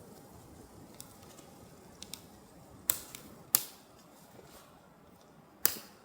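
A few sharp knocks or cracks: faint clicks in the first two seconds, then three loud ones about three, three and a half and nearly six seconds in, each dying away quickly.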